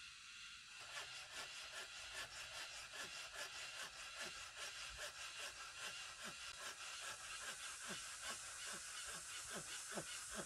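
A hand saw cutting wood in a steady run of back-and-forth strokes, a few strokes a second, starting about a second in.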